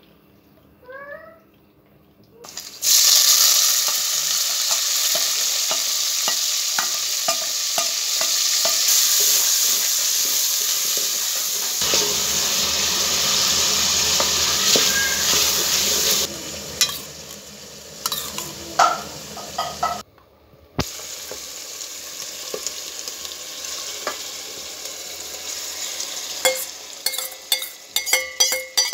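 Tomatoes and onion frying in hot oil in a metal pot, stirred with a wooden spoon: a loud sizzle starts about three seconds in. The sizzle eases after about sixteen seconds, with scattered knocks of the spoon against the pot, and a run of clinks and knocks comes near the end.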